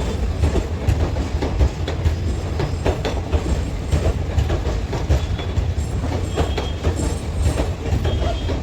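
Train moving along the tracks: a steady low rumble with the wheels clattering and clicking over the rail joints.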